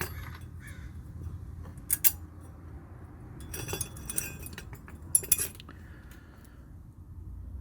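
Thin metal brake-pad shims and small brake hardware clinking together as they are handled, in short clattering bursts about two seconds in, near the middle, and again past five seconds.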